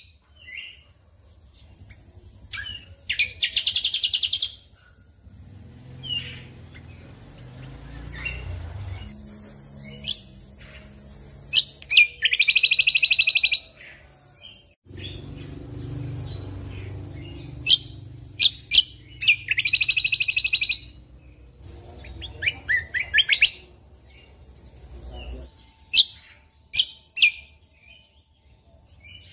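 Cucak kombo (kecial kombo) singing: sharp chirping calls broken by fast buzzy trills about a second long, three times over, with a low rumble in the background through most of it.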